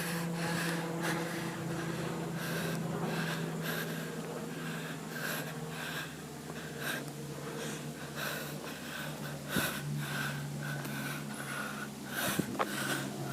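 Heavy breathing close to the microphone in short, regular strokes about twice a second, over a steady low hum.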